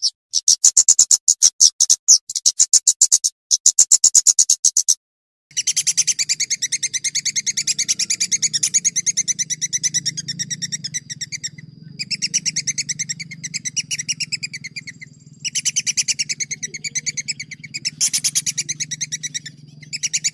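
Songbird song used as a training recording for competition birds: several short bursts of very rapid rolled trills, then from about five seconds in a near-continuous run of fast, high trilling notes. A low steady hum runs underneath the later part.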